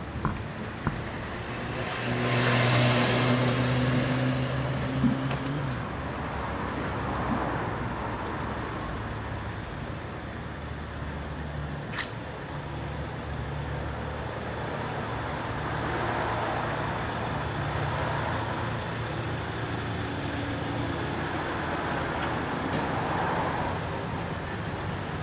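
Road traffic passing on a busy street. A vehicle with a low engine note goes by close about two to five seconds in, and lighter cars pass later on, with one sharp click midway.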